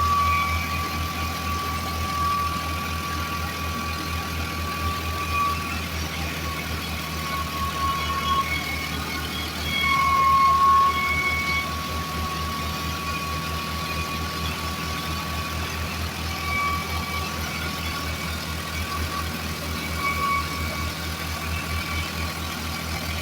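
New Holland tractor's diesel engine running steadily, a low rapid throb with a steady high whine on top; it swells briefly about ten seconds in.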